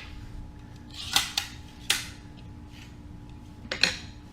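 Sharp clicks and clacks from handling the DOTOOL 16-gauge finish nailer's nail magazine as it is opened for loading: about five short clicks, two close together about a second in, one shortly after, and two more near the end.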